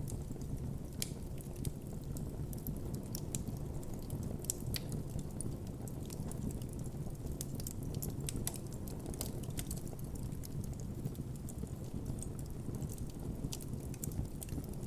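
Wood campfire burning, a steady low rumble of flames with frequent irregular sharp crackles and pops.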